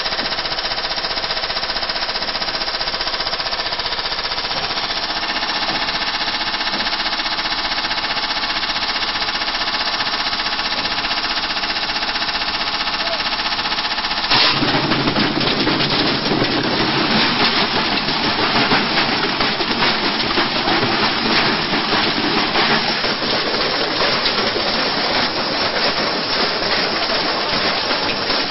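Washing machine being run to destruction: a steady motor whine under heavy, rapid rattling and hammering, which about halfway through turns suddenly louder into dense, fast clattering and banging.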